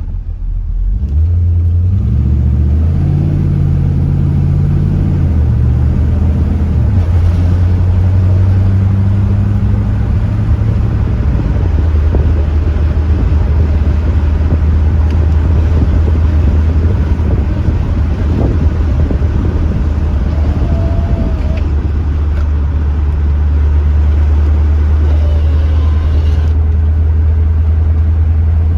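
1982 Chevrolet Corvette's 350 Cross-Fire Injection V8 pulling the car along the road: the engine note climbs and steps in pitch over the first several seconds, then settles into a steady cruising drone with road noise.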